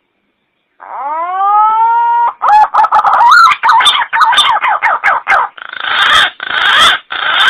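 Green pigeon (punai) call played as a bird lure. It opens with a rising whistle, then a run of quick notes that warble up and down, then three or four harsh, noisy notes near the end.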